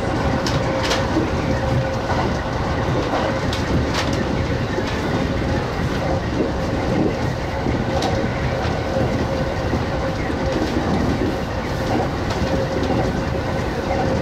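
Kintetsu express electric train running, heard from the front of the train: a steady rumble of wheels on rail with a steady whine through it and an occasional sharp clack as the wheels cross rail joints.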